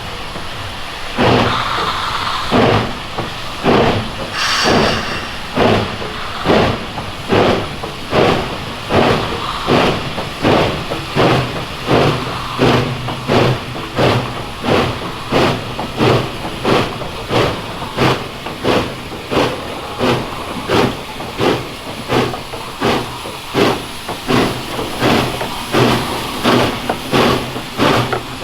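Kettle Valley Steam Railway steam locomotive working under steam, its exhaust chuffing in a steady, even beat of about one and a half chuffs a second. A short burst of steam hiss comes about four seconds in.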